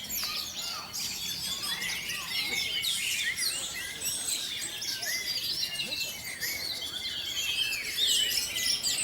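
Many caged orange-headed thrushes singing at once, a dense chorus of overlapping whistled phrases and chirps.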